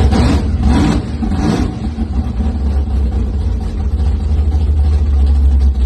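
Freshly rebuilt engine running just after being started, revved a few times in the first couple of seconds, then running steadily until it cuts off at the end. The owner suspects the front fuel injector nozzles are clogged and not delivering fuel.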